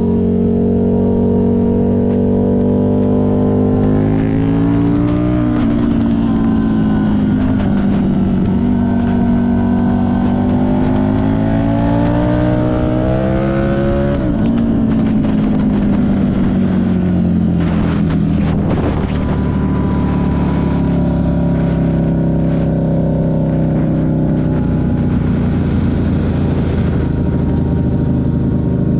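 Buell 1125CR's V-twin engine heard on board while riding: it runs steadily, climbs in pitch as the bike accelerates from about five seconds to fourteen, then winds down as it slows, with a brief rush of noise a little later before it settles to a steady cruise.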